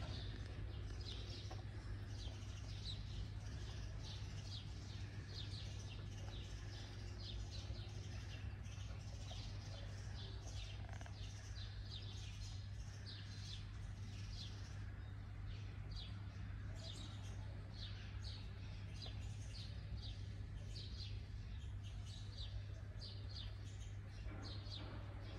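Small birds chirping: short, high chirps repeating several times a second and continuing throughout, over a steady low hum.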